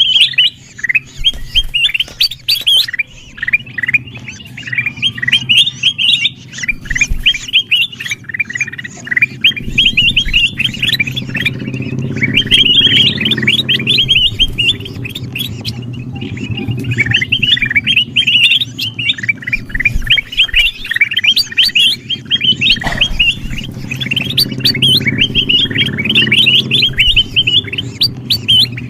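Kutilang emas bulbuls calling noisily in a dense, unbroken chatter of quick, sharp chirps, over a low steady hum.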